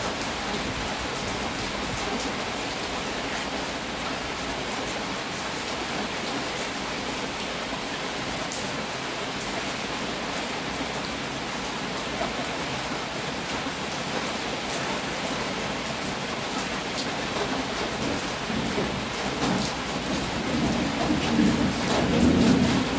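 Heavy rain falling steadily. Near the end a low rumble of thunder swells up under it.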